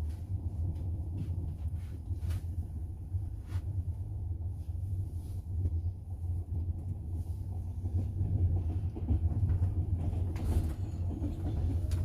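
Double-decker passenger train running on the rails, heard from inside the carriage: a steady deep rumble with a few scattered sharp clacks from the wheels.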